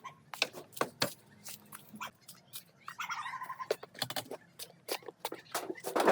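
Irregular sharp metallic clinks and knocks, with a brief squeal about three seconds in.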